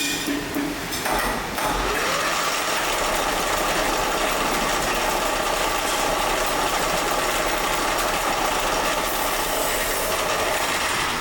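A machine running steadily, with a constant whine over a mechanical hiss, starting about a second in.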